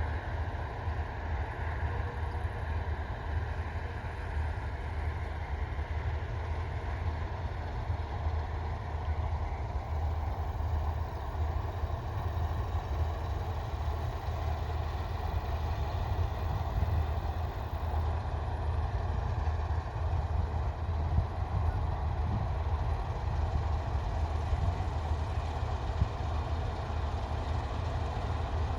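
Heavy diesel harvest machinery running steadily: a constant low engine drone with a whirring layer above it, no changes in pace.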